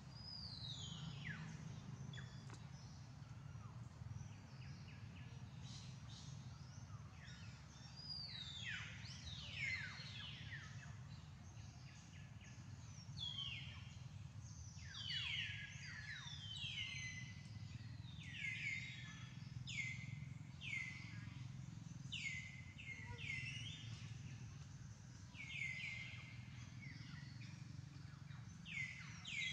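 Birds calling: short falling whistled notes, a few at first, then coming in quick runs from about midway. Under them is a steady low background rumble.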